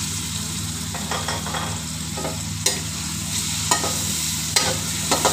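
Chopped tomatoes sizzling in hot oil with onion and spice masala in a metal wok, stirred with a slotted metal spatula. The spatula gives several sharp clinks and scrapes against the pan over a steady frying hiss.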